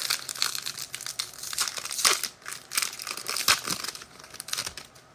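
Foil wrapper of a football trading-card pack being torn open and crinkled, a run of irregular crackling and crinkling with a few sharp clicks that dies away near the end.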